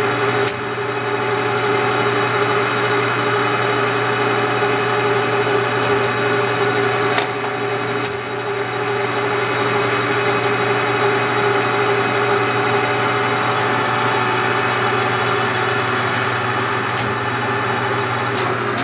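Leblond Makino gearhead engine lathe running with its spindle at about 820 rpm and the chuck empty: a steady headstock gear whine and motor hum, with a few light clicks.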